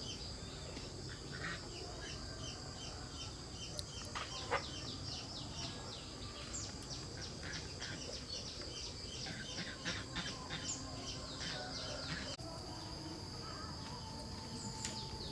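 Farmyard chickens clucking and small birds chirping in quick repeated calls, over a steady high-pitched drone.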